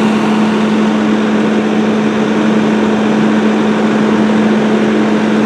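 Fire engine's diesel engine running steadily, with a constant hum over a broad engine noise and no change in speed.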